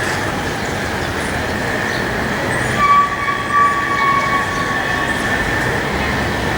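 Boeing 787 turbofan engines whining steadily at taxi power, with a second higher-pitched tone rising out of the noise for a couple of seconds midway.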